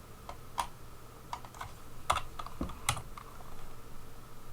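Computer keyboard keys tapped in short, irregular clicks, a dozen or so over a few seconds, as notes are edited in a tracker.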